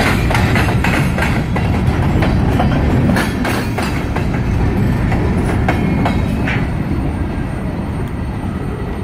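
Loaded covered hopper cars of a freight train rolling past: a steady rumble of wheels on rail with irregular clicks and clatter. It grows quieter near the end as the last cars move away.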